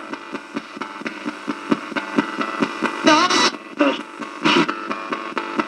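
Spirit box sweeping through radio stations: static broken by rapid clicks several times a second, with a brief garbled snatch of broadcast voice about three seconds in.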